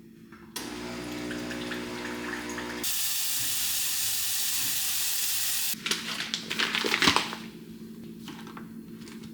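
Water running with a steady hum under it, then a louder, even rush of water for about three seconds, followed by a short spell of clattering knocks.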